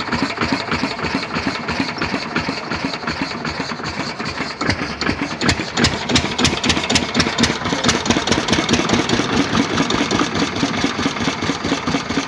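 Lister-type stationary diesel engine running steadily with an even, rapid chugging beat.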